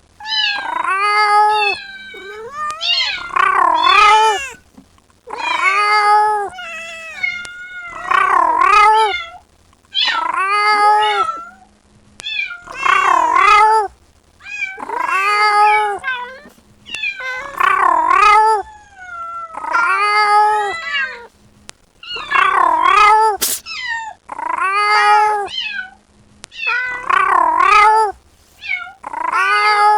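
Kitten meowing loudly and repeatedly, one call about every two seconds, each meow rising and then falling in pitch: a kitten crying for its mother.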